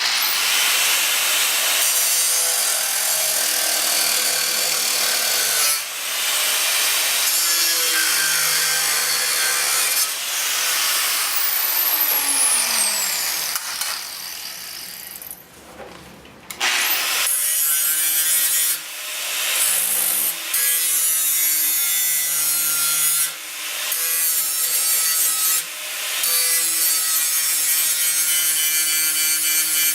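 Electric angle grinder cutting and grinding the steel of a tractor fender, running in long stretches with several brief stops. About midway it winds down with a falling whine, then starts up again.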